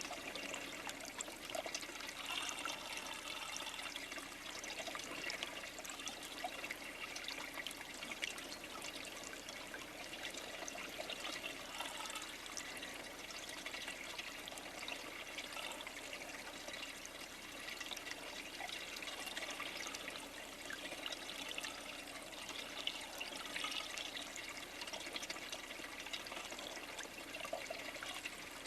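Steady outdoor water noise, trickling and splashing, dotted with many small ticks and drips.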